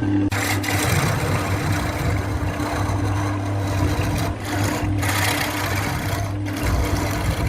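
Wood lathe running with a steady motor hum while a turning tool cuts into the spinning wood, giving a rough hissing scrape that starts just after the beginning and lets up briefly a few times.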